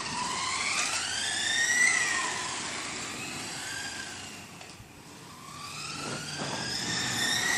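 Motors of 1/10-scale RC race cars whining, the pitch gliding down and up as the throttle changes. The whine fades to its quietest about five seconds in, then climbs in pitch and loudness again.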